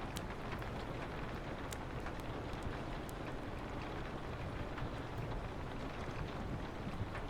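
Steady rain on a window with a low wind rumble, mixed with a wood fire crackling: scattered sharp pops over an even hiss.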